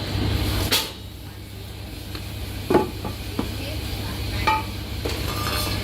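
A handful of short, sharp metal clinks and knocks, about five spread across a few seconds, over a steady low hum.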